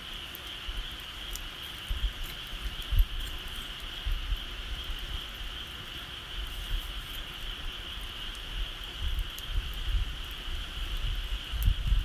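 A steady, high-pitched insect trill throughout, with sparse faint crackles from a bonfire. Wind buffets the microphone in low rumbles that grow stronger near the end.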